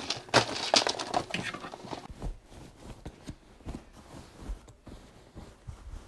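Rummaging through a fabric tote bag: its contents rustle and clatter with sharp clicks for about two seconds. Then come quieter rustles and a few soft, low thumps.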